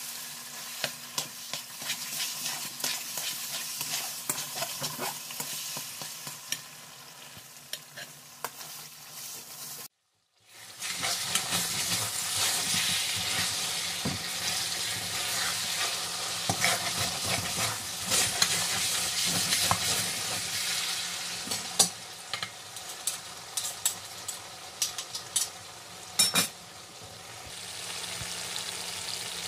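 Semolina halwa sizzling as it fries in oil in a metal pan, a spatula stirring and scraping it with frequent clicks against the pan. The halwa has released its oil, the late frying stage just before it is ready. The sound cuts out for a moment about ten seconds in, then comes back louder.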